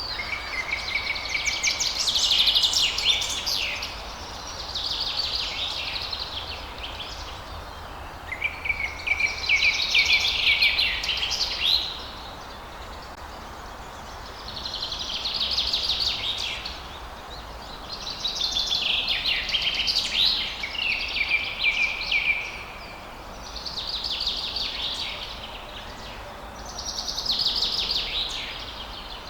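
Songbirds singing at dawn: about seven bursts of song, each a couple of seconds of quick high chirps and trills, come every few seconds over a steady faint background hiss.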